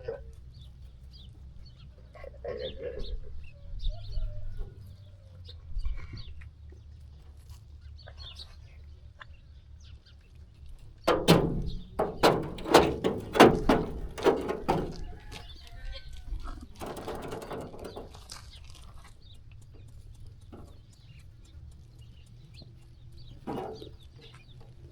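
Sheep farm ambience: short scattered animal calls over a low steady rumble, with a run of sharp knocks and clicks lasting a few seconds about halfway through.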